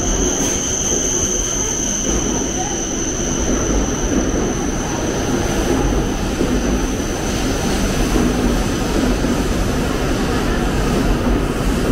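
E7-series Shinkansen bullet train pulling slowly into the platform: a steady rush and rumble of the cars gliding past, with a constant high whine that slowly fades.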